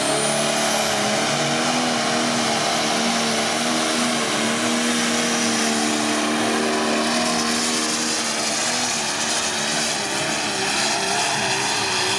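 Turbocharged diesel pulling tractor's engine running hard and steady under load, with a high turbo whistle that climbs over the first second and then holds. The engine note wavers slightly in the second half.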